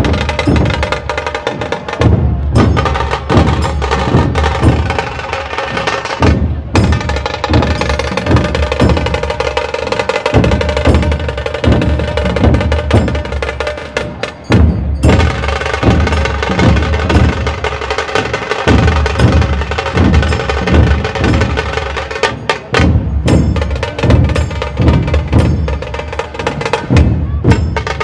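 Dhol-tasha ensemble drumming: big barrel-shaped dhols beaten with sticks under the sharp, rapid cracking of tasha snare drums, in dense driving rhythms. The playing breaks off for a split second several times between phrases, then comes straight back in.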